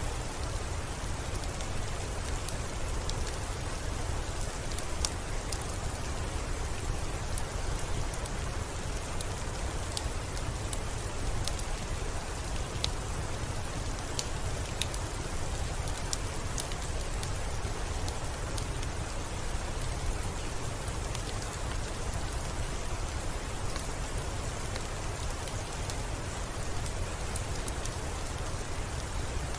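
Steady falling rain, with many small sharp crackles and pops from a wood fire scattered through it at irregular intervals.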